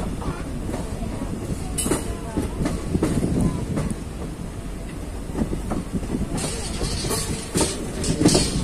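Passenger train coach running along the rails, heard from its open doorway: a steady rumble of wheels with clicks over rail joints, growing louder near the end.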